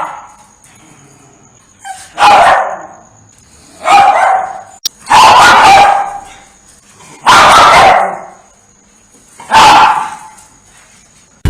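A dog barking: five loud single barks spaced about two seconds apart, the middle one drawn out longer.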